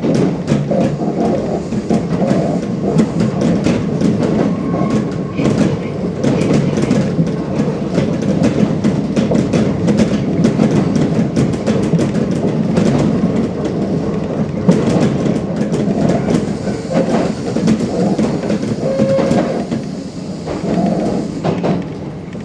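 Kintetsu Ikoma Line electric commuter train running, heard from the driver's cab: steady wheel-on-rail rumble with frequent clicks from rail joints, easing off near the end as the train slows for a station. A level-crossing bell sounds faintly near the end.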